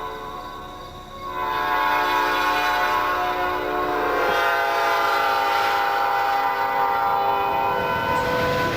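Diesel locomotive air horn blowing: a chord that fades just after the start, then sounds again loud about a second in and is held for several seconds, dropping slightly in pitch around the middle as the locomotive passes. Near the end the horn stops and the rumble of the passing train takes over.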